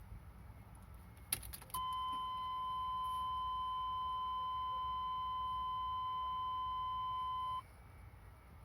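Ignition key clicking, then the truck's dashboard warning tone sounding steadily for about six seconds and cutting off sharply. This is key-on before cranking the cold 6.2 diesel.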